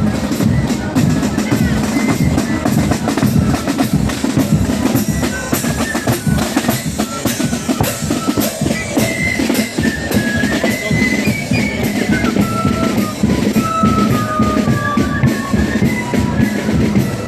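Marching band drums beating steadily, bass drum and snares, with a high melody line stepping up and down above them from about halfway.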